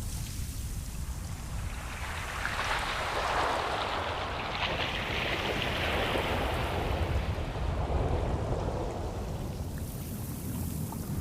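Ocean waves on a shore over a steady low rumble. One wave swells into a hiss about two seconds in, washes for several seconds and fades, and the next begins to build near the end.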